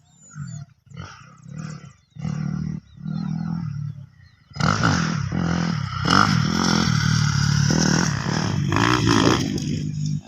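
Kawasaki KX250F motocross bike's single-cylinder four-stroke engine being warmed up and revved: a series of short throttle blips, then from about halfway a long loud rev held high with the pitch rising and falling, dropping off near the end.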